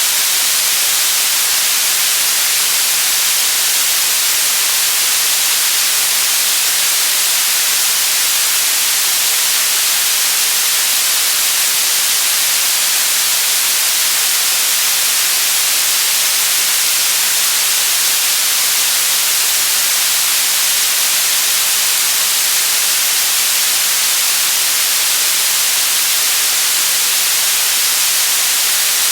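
Continuous white noise: a steady, unchanging hiss weighted toward the high frequencies, with little low end.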